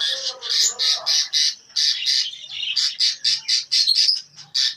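A roomful of caged birds in a bird shop calling all at once: a dense chatter of short, high-pitched squawks and chirps, several a second, with a lower call in the first second.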